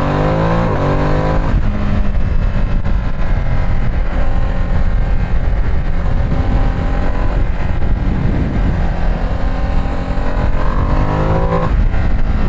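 Ducati Streetfighter V2 S's L-twin engine under way, its pitch rising as it revs up over about the first second and a half, then running steadily, and rising again near the end, over a constant low rumble.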